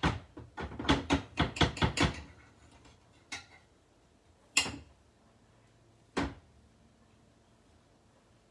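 Kitchen handling: a quick run of about eight light knocks and clatters of a utensil and food against a bowl, then three separate knocks spaced over the next few seconds.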